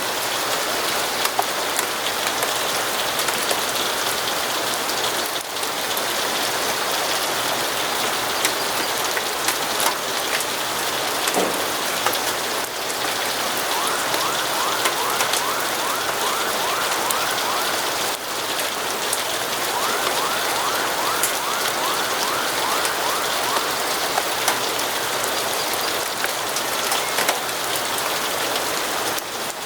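Steady rain falling, an even hiss with scattered sharp ticks of drops. Twice in the middle there is a short stretch of rapid, evenly repeated high chirps.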